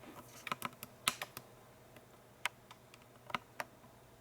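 A string of light, irregular clicks and taps, about ten of them, several bunched in the first second and a half and a few more later, over a faint steady hum.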